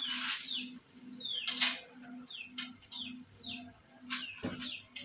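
Birds chirping: short, high chirps that fall in pitch, several a second, over a low tone pulsing about twice a second, with a few sharp clicks.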